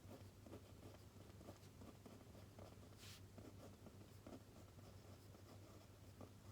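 Faint writing on paper: short scratchy strokes, with a brief swish about three seconds in, over a low steady hum.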